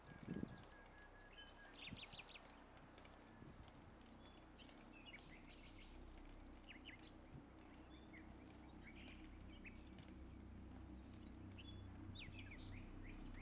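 Faint, scattered bird chirps over a low background rumble that slowly grows louder, with one dull thump right at the start.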